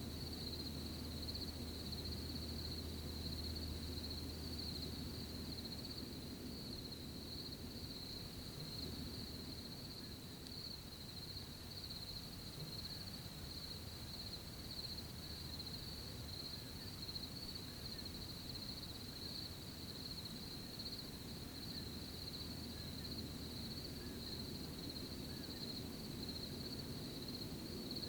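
Crickets trilling steadily in one unbroken high-pitched band over a low background rustle.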